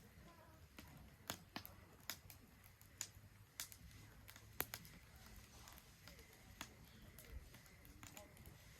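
Wood fire crackling in a Solo Stove Ranger fire pit: sharp, scattered pops at irregular intervals, roughly one every half second to a second, over a faint low background.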